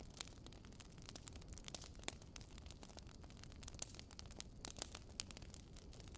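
Wood fire crackling: irregular sharp pops and snaps, several a second, over a soft low rushing hiss.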